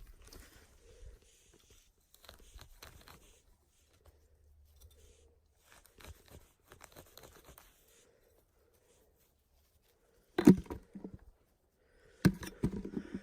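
Crunching and rustling of footsteps and brush on forest litter, coming in soft scattered bursts, then two louder clusters of crunches near the end.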